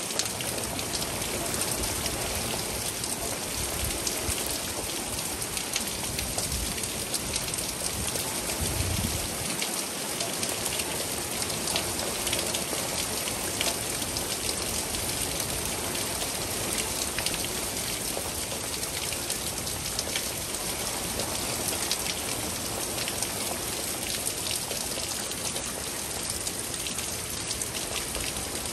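Steady rain falling during a thunderstorm, with a dense hiss and many separate drops ticking close by.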